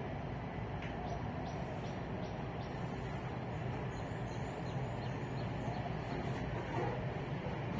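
Steady rumble of distant road traffic, with small birds chirping over it.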